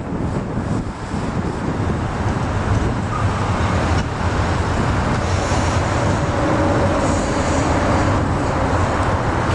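Double-stack container cars of a freight train rolling over a steel railway bridge: a steady low rumble, with a faint whine joining about halfway through.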